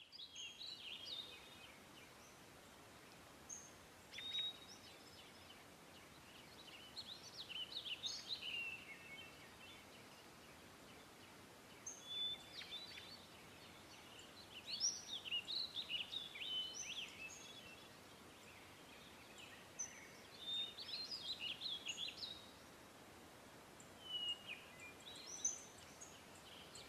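Birds chirping and calling in scattered bursts every few seconds, short chirps and brief whistles, some gliding in pitch, over a faint steady outdoor hiss.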